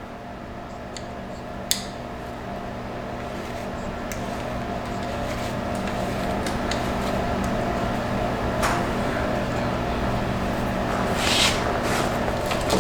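Steady machine hum that grows slowly louder, with a few light clicks scattered through it.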